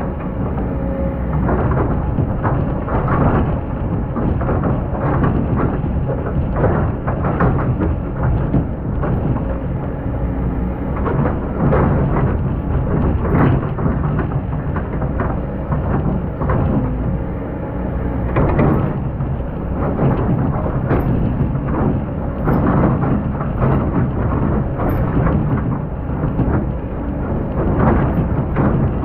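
Hydraulic excavator running under load, its engine rumbling steadily, with many short scraping and knocking noises as the bucket digs into hard, compacted sand.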